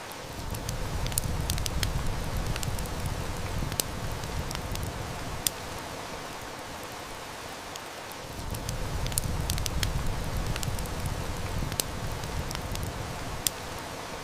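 Heavy rain hissing steadily, with a wood fire crackling and snapping in sharp clicks throughout. Distant thunder rumbles low twice, each rumble lasting about five seconds.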